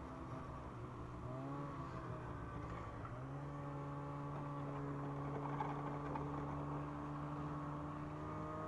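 Ski-Doo MXZ snowmobile's 600 carbureted two-stroke engine running on the trail. Its note dips and recovers between about one and three seconds in, then rises and holds steady.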